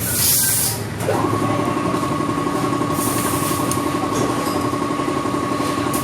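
A machine starts up about a second in and runs with a steady hum at a fixed pitch. Two short bursts of hiss come, one at the start and one about three seconds in.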